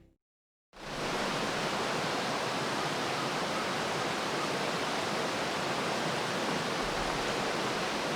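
A steady, even rushing noise that fades in after a moment of silence about a second in and holds unchanged.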